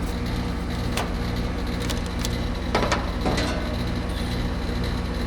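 Wires and wire nuts being handled in an AC condenser's electrical box: a few sharp clicks and crackles about one, two and three seconds in, over a steady low machine hum.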